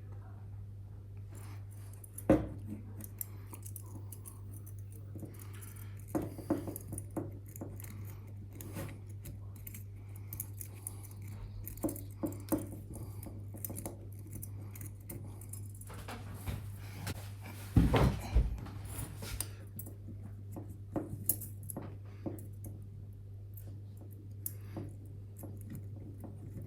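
Small metal parts and tools clinking and being handled, with a louder knock about two seconds in and a cluster of knocks around eighteen seconds in, over a steady low hum.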